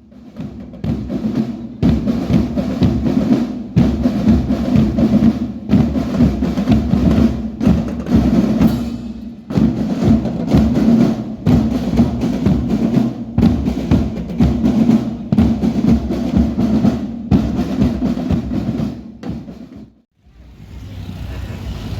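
School marching drum band playing: snare and bass drums beating a fast, dense rhythm, breaking off abruptly about twenty seconds in. Steady background noise rises near the end.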